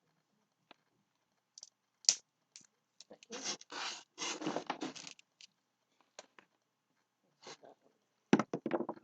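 Sticks and string being handled and cut with a small knife: scattered knocks, scrapes and rustling, with a sharper knock about two seconds in.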